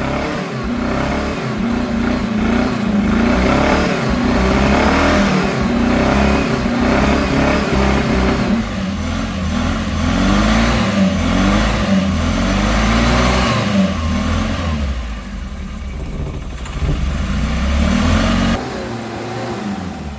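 Car engine running and being revved, its pitch rising and falling again and again. The sound drops off near the end.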